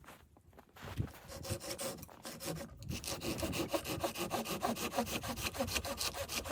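Hand saw cutting through wood: a few uneven starting strokes, then quick, even back-and-forth strokes from about three seconds in.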